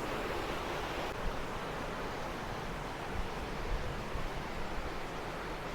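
Steady rush of falling water, with wind rumbling on the microphone.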